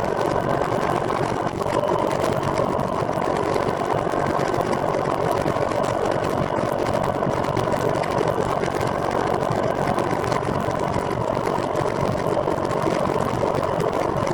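Steady mechanical whirring with road and wind noise from a recumbent trike being ridden, running evenly without a break.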